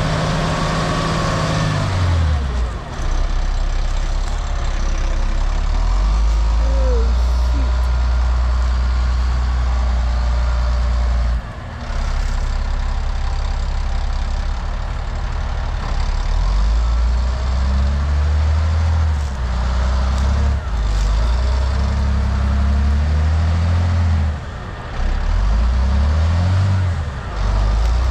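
Diesel engine of a tracked off-road haul truck revving up and down under heavy load, its low note rising and falling repeatedly with a couple of brief let-offs, as the truck struggles in mud.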